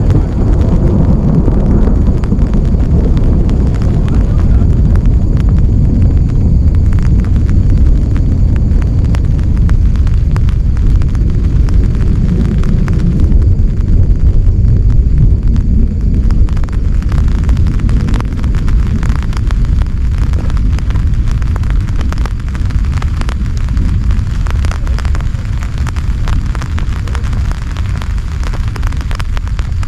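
Heavy rainstorm: dense rain with a loud low rumble and constant fine crackle, easing slightly in the second half.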